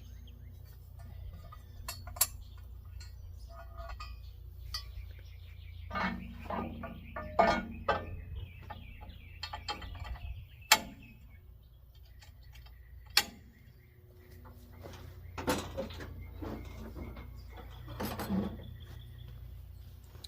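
Scattered sharp clicks and metallic clinks, four of them standing out, over a steady low hum, with birds chirping now and then.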